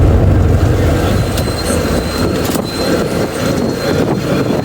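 Bus interior running noise: a steady low engine and road rumble, with a few light rattles. The rumble eases a little about two seconds in.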